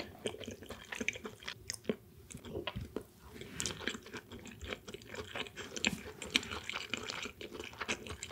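A person chewing sushi close to the microphone: soft, wet mouth sounds with many small, irregular clicks and smacks.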